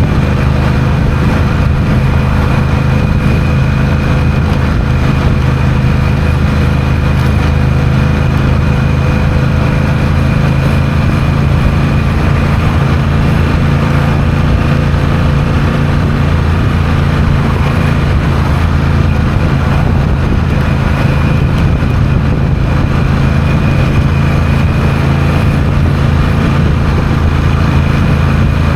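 Honda CMX1100 Rebel's parallel-twin engine running at a steady cruising speed as the bike rides along, over a constant rush of wind and road noise.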